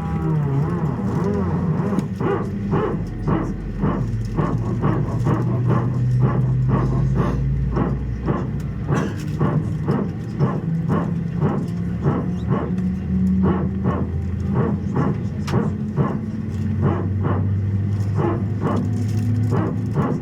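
Airbus A320 cabin noise: a steady engine hum that shifts in pitch now and then, with short knocks and rattles about twice a second, typical of the airliner rolling over taxiway joints.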